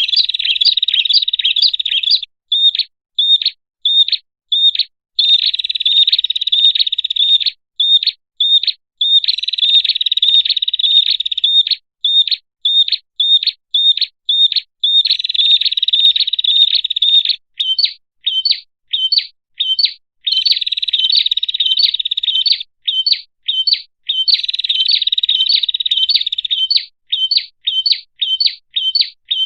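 Prinia (prenjak) song used as a bird-luring call: sharp, high chirps repeated about two or three a second, alternating with several stretches of rapid, continuous trilling.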